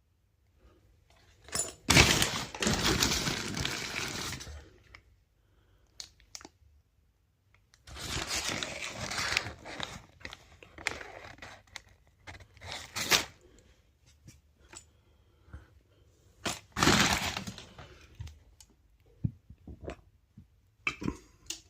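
Takeaway food packaging being handled: paper bags and cardboard boxes rustling and crinkling in three bursts of about two seconds each, with scattered clicks and taps in between.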